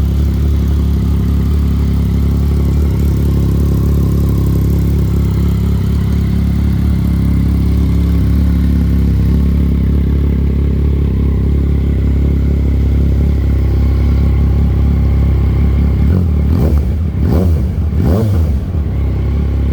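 Yamaha XSR900's three-cylinder engine idling through a Black Widow aftermarket exhaust, then blipped a few times near the end, the revs rising and falling quickly each time.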